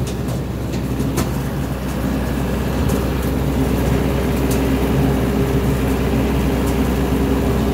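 Small tractor's engine running at raised RPM, driving its engaged brush-cutter blade: a steady hum that gets a little louder about two seconds in, with a few faint sharp ticks.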